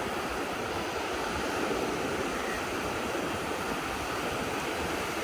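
Ocean surf, a steady rush of waves with no single break standing out.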